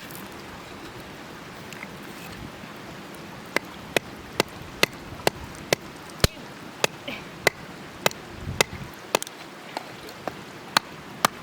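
Small hatchet chopping into firewood: a run of sharp, short knocks about two a second, starting a few seconds in.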